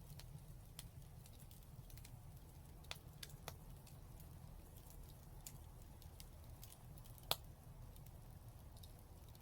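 Fire in a fireplace crackling softly, with sparse sharp pops over a low steady hum; the strongest pop comes about seven seconds in.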